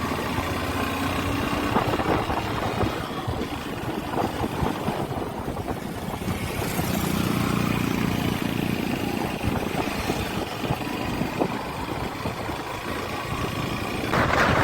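Motorcycle engine running steadily under way, with road noise. A louder rush of wind noise on the microphone comes in near the end.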